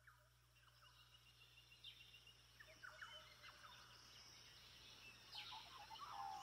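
Near silence with very faint, short chirping bird-like calls, a little louder near the end.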